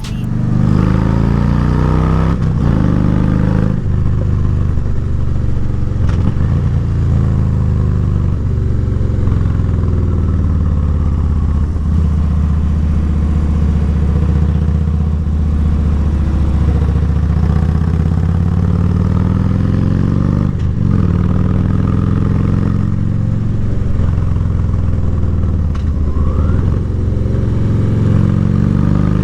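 Harley-Davidson V-twin motorcycle engine running while riding, its note rising and falling with throttle and several brief dips that fit gear changes.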